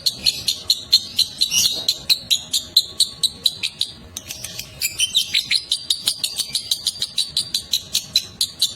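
Lovebird's long 'ngekek' chattering song: a rapid, even run of sharp high chirps, about five a second, with a brief break about four seconds in.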